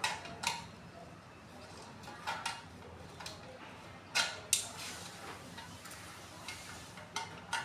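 Metal tools and pump parts clinking and knocking as they are handled, a few scattered hits, with two sharp ones close together about four seconds in.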